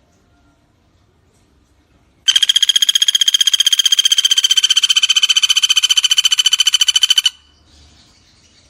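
A pelatuk bawang bird singing one long, fast, loud trill of about fourteen notes a second, starting a couple of seconds in and running for about five seconds. The trill is clear and high, drifts slightly down in pitch, then stops abruptly.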